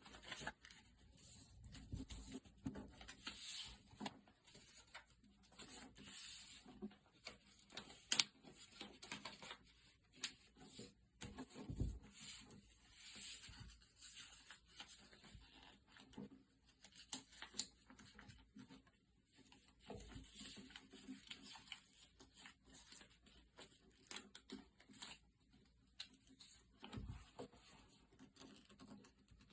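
A sheet of paper being folded and creased by hand into an origami boat: irregular crackling and rustling with sharp little crease sounds, and a few soft thumps.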